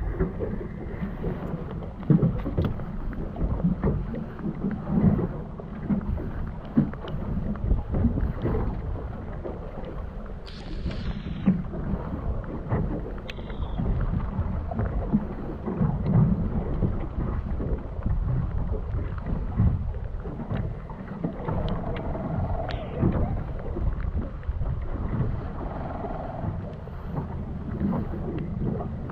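Steady low rumbling noise of wind and a boat at sea, with occasional knocks and a brief higher sound partway through.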